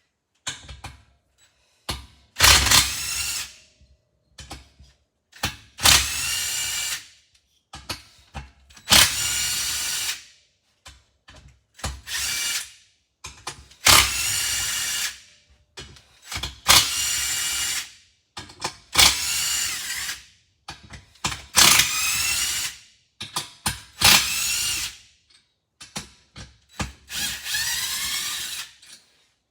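Power drill/driver running in about ten short bursts, each a second or so of steady whine that sags in pitch as the trigger is let off. It is backing out the cylinder head bolts on a Briggs & Stratton engine.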